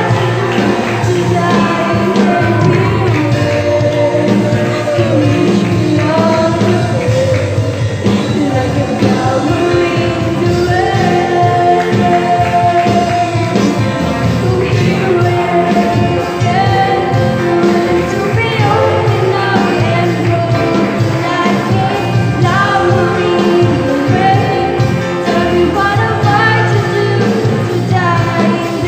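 Youth choir singing a gospel song with amplified band accompaniment.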